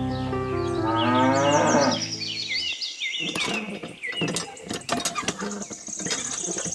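A cow mooing: one long low call that rises in pitch and breaks off a little under three seconds in, with birds chirping over it. Then a run of light clicks and taps.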